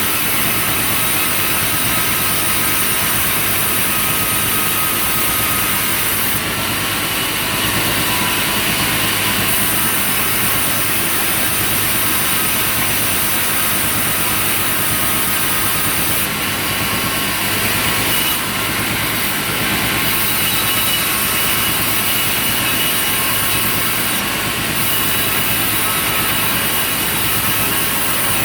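A sawmill running steadily: a continuous machine drone with a high hiss that drops out and comes back several times.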